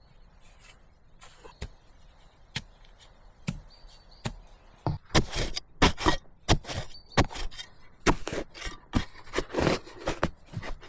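Hand-tool work: repeated sharp blows with some scraping between them, sparse at first, then about two or three a second from about five seconds in.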